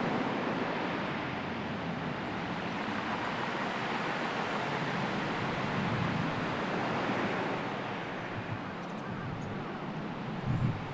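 Sea waves washing in and out in a steady wash of surf, swelling about six seconds in, with wind; a short low thump comes near the end.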